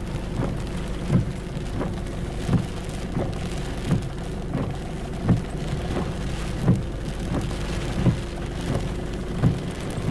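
Rain falling steadily in a thunderstorm, with a steady low hum underneath. A short low thump repeats about every second and a half.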